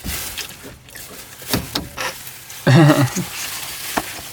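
Rustling and sharp clicks of things being handled, with a short voiced sound, a brief exclamation or laugh, about three seconds in.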